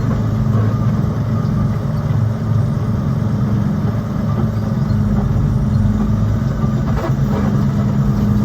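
Heavy truck's diesel engine idling steadily with an even low hum.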